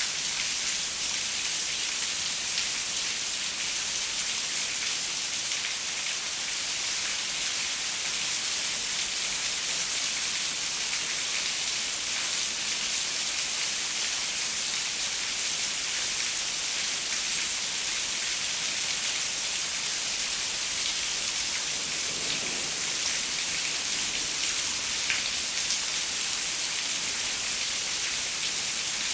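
Steady rain falling on a window: a dense, even hiss of many drops, strongest in the high range, with no change in intensity.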